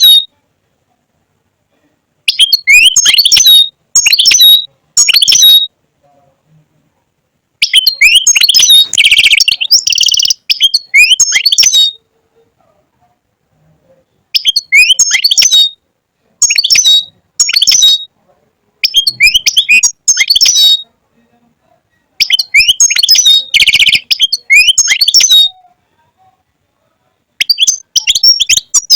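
European goldfinch singing: bursts of fast, high, tinkling twitter lasting one to four seconds each, about eight phrases with short silent gaps between them.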